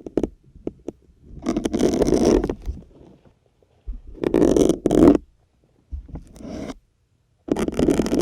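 Plastic syringes pushed one after another into a firm grey sponge: four rasping pushes, each lasting about a second, with a few light clicks in the first second.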